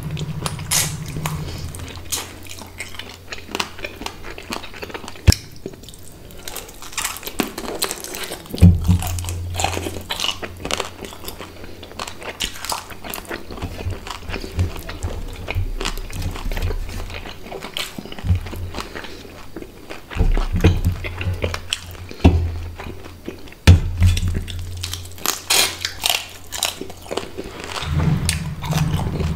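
Close-miked chewing and crunching of curried hilsa fish head, with many sharp clicks and wet mouth sounds as the bones are bitten and sucked.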